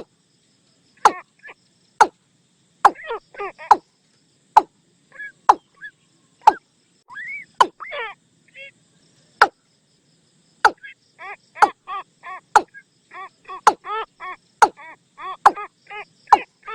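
Watercock calling: sharp knocking clicks mixed with short repeated call notes, which quicken after about ten seconds into a steady run of about three notes a second.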